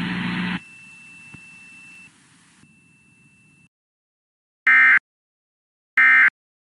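Emergency Alert System end-of-message data bursts: two short, loud, identical buzzy bursts a little over a second apart, coming after a hiss that cuts off and a faint high tone that stops.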